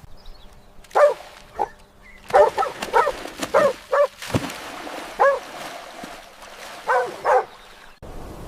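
Dog barking: about ten short, high barks in irregular groups, some in quick pairs.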